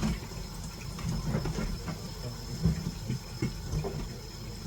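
Kitchen cooking sounds: irregular low knocks and handling noises over a steady faint hiss, with one slightly louder knock about halfway through.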